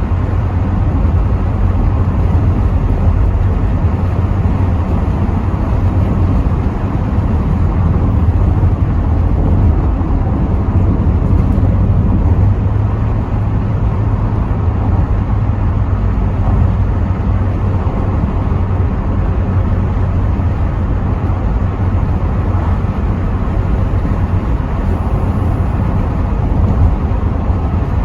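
Steady in-cabin driving noise of a Rover 75 V6 estate on the move: a constant low rumble of engine and tyres on the road, with wind noise through partly open windows.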